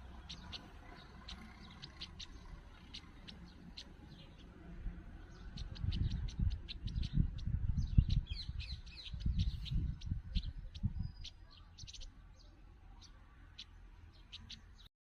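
A small bird chirping: many short, high chirps, densest in the middle stretch, over low rumbling that is loudest in the middle. The sound cuts off suddenly near the end.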